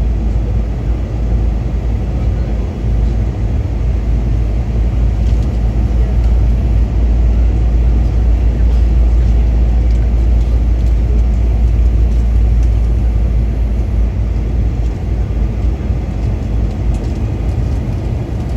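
Steady cabin noise of a Boeing 737 in flight on approach: an even, low rumble of engines and rushing air.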